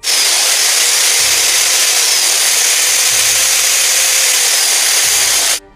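Power drill sound effect: a loud, steady drill whir that starts abruptly and cuts off sharply after about five and a half seconds.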